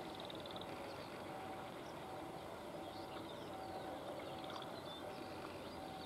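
Faint, steady running noise of an electric multiple-unit (EMU) local train at a distance, with birds chirping and a short call repeating over it.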